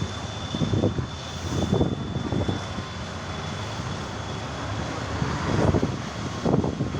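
Competition trial truck's engine running hard and revving, swelling louder twice, about two seconds in and again near the end.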